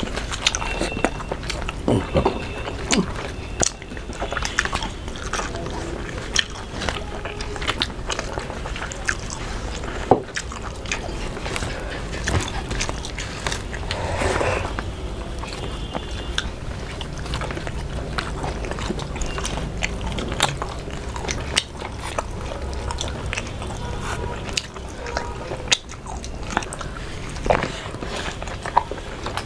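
Close-up eating sounds of two people chewing mouthfuls of rice and fried fish eaten by hand, full of many short wet clicks of mouths and lips.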